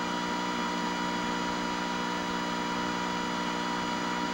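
Steady electrical buzz-hum from a running 1984 Montgomery Ward (Sharp) color CRT television, a many-pitched drone that holds level and pitch throughout.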